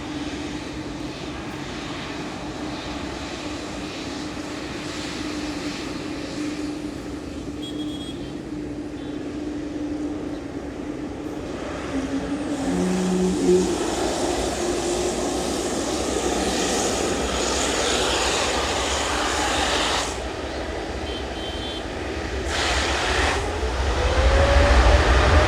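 Boeing 787 Dreamliner's jet engines at takeoff: a steady roar that grows louder about halfway through. In the last few seconds a whine climbs in pitch as the low rumble becomes loudest.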